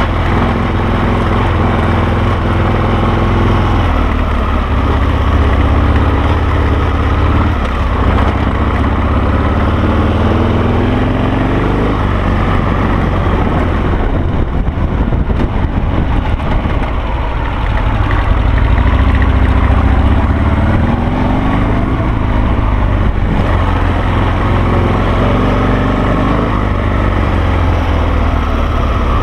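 Loud Harley-Davidson Sportster V-twin engine of a Carducci SC3 Adventure dual-sport motorcycle running under way, its pitch rising and falling repeatedly as the throttle opens and closes, easing off for a few seconds midway.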